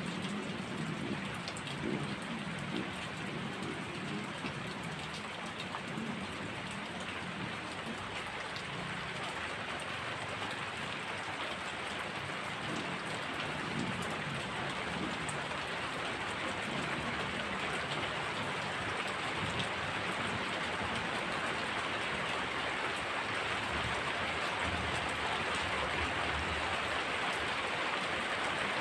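Heavy rain falling steadily on surfaces, a dense hiss that grows a little louder in the second half, with a low rumble of distant thunder through the first half.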